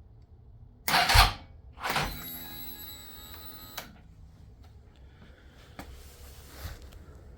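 Start attempt on a 2005 Suzuki SV650's 645cc V-twin from a cold lithium battery: two loud bursts about a second apart, then a steady whine that cuts off abruptly. The engine does not start; the freezer-chilled battery is still too cold to crank it.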